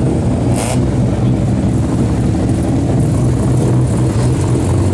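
Car engines running at low, steady revs as cars drive slowly past. First a first-generation Mazda RX-7 pulls away, then a red convertible rolls by.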